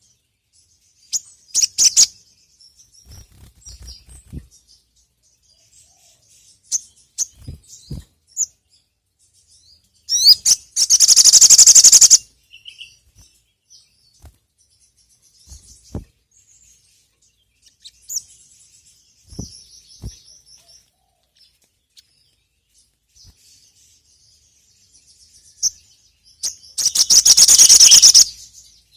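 Sogon (sogok ontong) bird calling: scattered short, high chirps, broken twice by a long, loud, rapid high trill of about two seconds each. A few soft low thumps in between.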